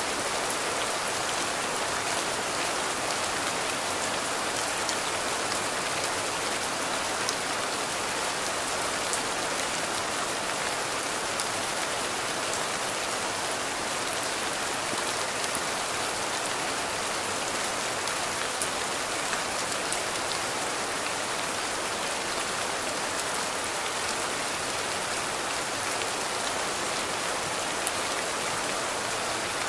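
Steady rain falling: an even hiss of rain with the ticks of single drops hitting now and then.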